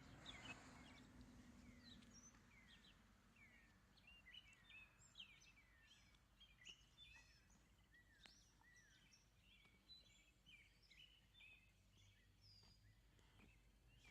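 Several songbirds chirping and singing in the morning, many short falling and curved notes overlapping, faint over a low steady background hum.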